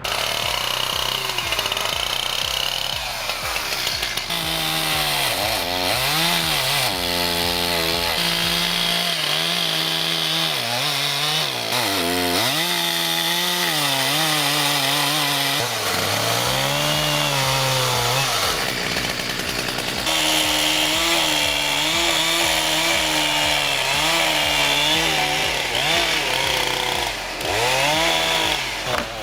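A chainsaw running at high revs and cutting, its engine pitch repeatedly dipping and rising again as the chain bites into the wood.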